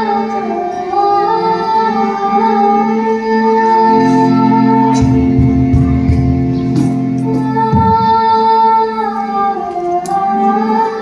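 Girls singing a kajari, a Bihari folk song, in long held notes that glide from pitch to pitch, over a sustained instrumental accompaniment. The accompaniment grows fuller and heavier in the low range from about four to eight seconds in.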